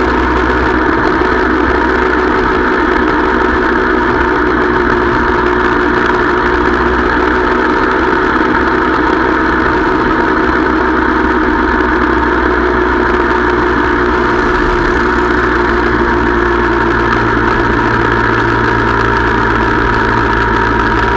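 Motorcycle engine running steadily at a constant cruising speed, recorded from the moving bike, with no change in pitch.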